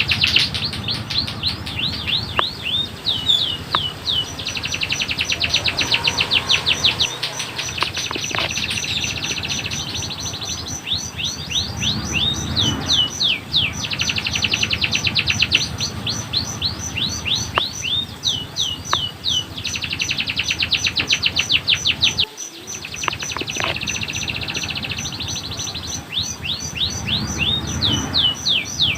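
Domestic canary singing a long song of rolling phrases, each a fast run of repeated downward-sweeping notes, changing every few seconds. A fast, even series of high pips runs through the middle stretch.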